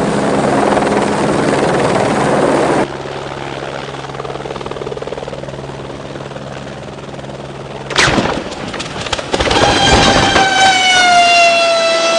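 Helicopter running, loud and then quieter after an abrupt cut, followed by a sudden crash-like impact about two-thirds of the way in. A steady high tone then follows, dipping slightly in pitch before holding.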